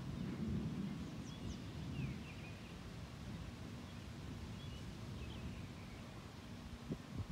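Faint, short bird chirps a few times over a low, steady outdoor rumble.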